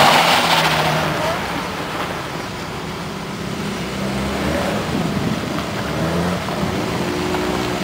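BMW E30 engines idling and moving slowly on gravel, their pitch rising and falling a little midway. There is a loud rush of noise in the first second.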